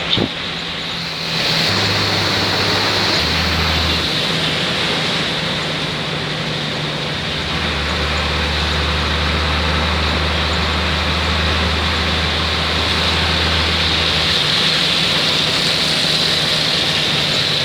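Steady hiss of tyres on a wet road and rain on an intercity bus as it drives, with a low engine drone that comes and goes and shifts in pitch, held steady for several seconds in the middle.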